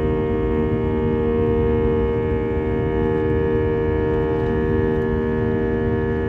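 Steady drone of a jet airliner cabin: a low rumble with several constant humming tones from the engines and air systems, unchanging throughout.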